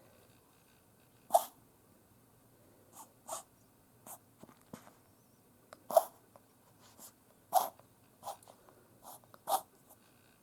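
A Yorkshire terrier's reverse sneezing: short, sharp breaths through the nose, about ten of them at irregular intervals of a second or two, a few much louder than the others. The episode has not yet settled.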